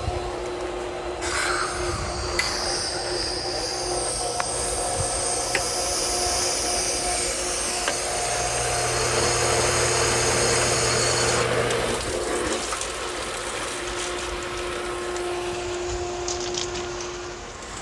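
Sunblazer pool heat pump running after its temperature sensor was replaced: a steady machine hum with a constant mid-pitched tone, and a high hiss that comes in about a second in and drops away around eleven seconds.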